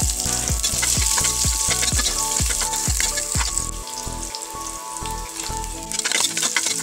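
Onions and whole spices sizzling in hot oil in an aluminium pressure cooker, stirred with a steel ladle, under background music with a steady beat.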